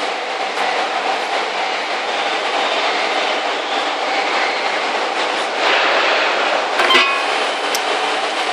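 Electric motor running fully submerged in water after a water-protection treatment, a steady even running noise with no break. A short click comes about seven seconds in.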